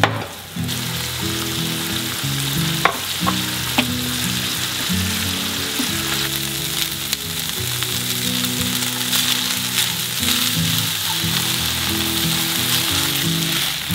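Shrimp, diced vegetables and rice sizzling steadily in a hot frying pan as a spatula stirs them, with a few sharp clicks of the spatula against the pan in the first few seconds.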